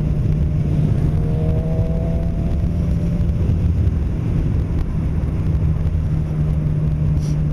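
Suzuki GSX-R600's inline-four engine running steadily while riding, a constant droning tone under dense road and wind rumble.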